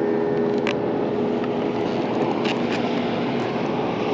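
Boat motor running steadily with a hum, over a hiss of water and wind, with a few small clicks.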